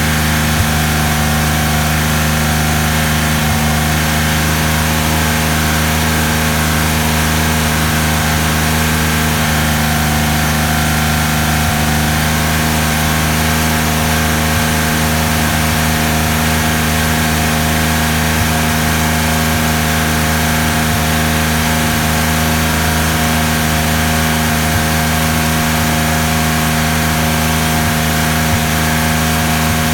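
1988 Porsche 959's twin-turbo flat-six idling steadily while warming up to operating temperature.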